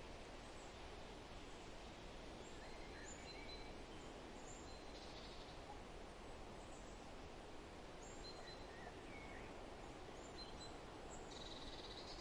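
Forest ambience: a steady, faint hiss with scattered short bird chirps and calls, including a brief buzzy trill about five seconds in and another near the end.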